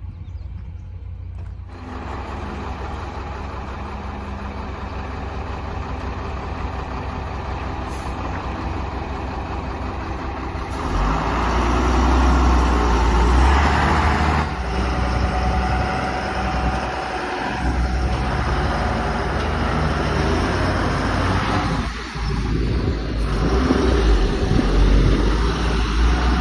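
JCB backhoe loader's diesel engine running continuously, rising to a louder, heavier note for a few seconds about a third of the way in, with short dips in level later on.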